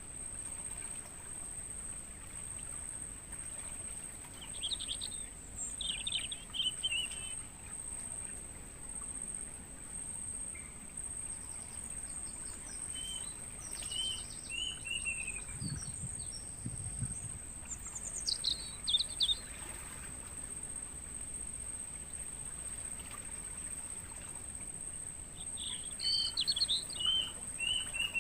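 Crickets chirping in a continuous high-pitched trill, with songbirds calling in short chirping phrases several times over it.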